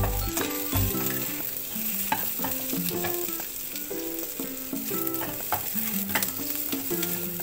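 Chicken pieces and sliced onion sizzling as they fry in a nonstick wok, stirred with a spatula that knocks against the pan a few times, with background music playing over it.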